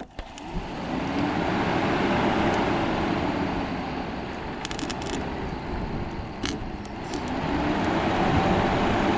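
Electric radiator cooling fan spinning up and running, powered directly on one of its speed terminals, a steady rush of moving air. It eases a little in the middle and picks up again near the end, with a couple of light clicks. On this terminal the speed is judged "not insane".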